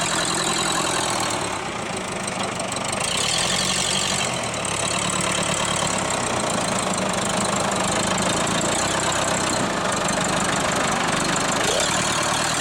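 Tractor engine running steadily while its bucket pushes a car's wheel in to straighten the bent front frame, the engine note shifting a few times as it works.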